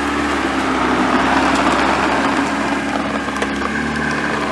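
Lowered Mazda Miata's four-cylinder engine idling as the car creeps at walking pace, with a rough crackling scrape over it, the kind of scrape its low bumper makes on the driveway.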